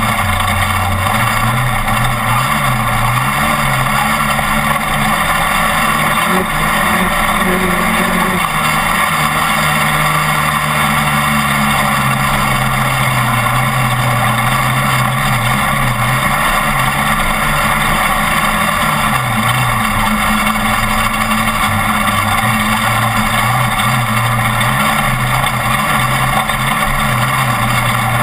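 Off-road race truck's engine running continuously under a dense din of road and wind noise, its pitch dipping and climbing again and again as the throttle comes on and off.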